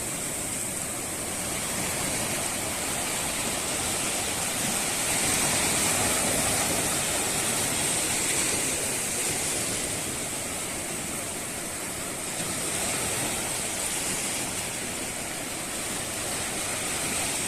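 Steady rushing water that swells and eases slowly over several seconds, with a thin, steady high hiss over it.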